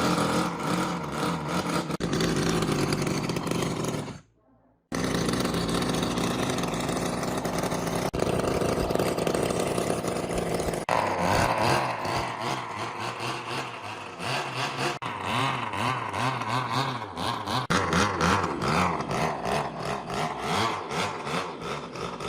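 Restored minibike's small two-stroke engine running and revving, its pitch rising and falling. The sound cuts out briefly about four seconds in.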